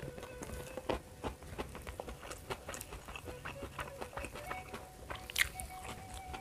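Close-up eating sounds: a man chewing with wet lip smacks, and soft sticky clicks as his fingers pick at rice and food.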